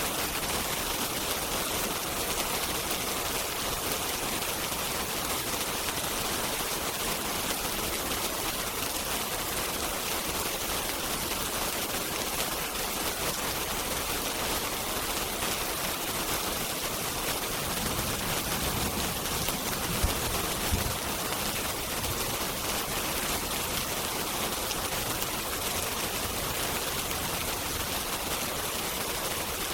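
Steady rain on a window, an even hiss. About two-thirds of the way through, a low rumble of distant thunder swells briefly, with a couple of sharp crackles from the fireplace.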